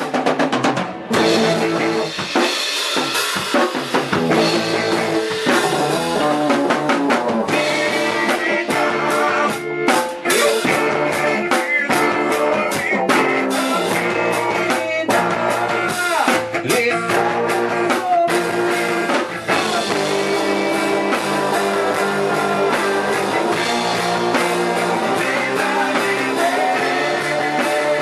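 Live band playing without vocals: drum kit with rimshots and bass drum over guitar and bass, with a stretch of busy drum fills from about eight seconds in to about nineteen seconds.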